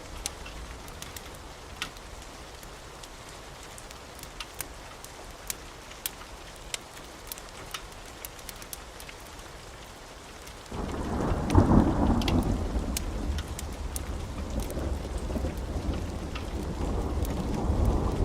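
Wood fire crackling, with sharp pops over a soft hiss. About ten seconds in, a loud low rumble sets in suddenly, swells and rolls on under the crackles.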